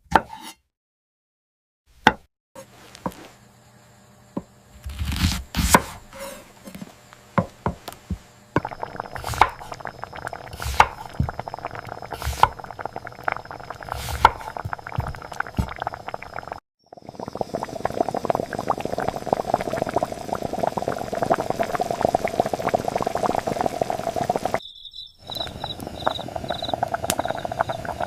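Home kitchen cooking sounds in several short shots: first a few separate knocks of utensils, then from about eight seconds in a long steady liquid sound, as of liquid being poured or cooking in a pan, dotted with small ticks.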